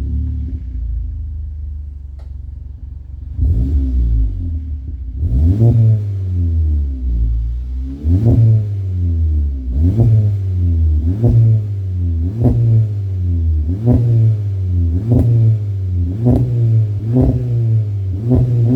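Car engine through an aftermarket 63 mm exhaust (Etuners downpipe, Joombra resonator, Deikin muffler) idling for about three seconds, then revved repeatedly in short blips, about one every second or so, each rising and falling in pitch.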